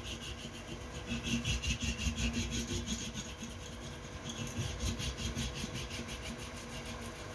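Rapid rhythmic scraping strokes of a hand tool rubbing against rubber, in spells that stop and start and grow fainter near the end.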